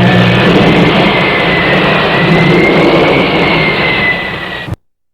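Jet aircraft engine running loud and steady, a rushing roar with a high turbine whine over it, cut off abruptly near the end.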